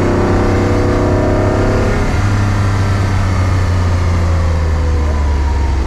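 Car engine revving up with rising pitch for about two seconds. The pitch then drops, as at a gear change or lift-off, and runs on, easing slowly lower.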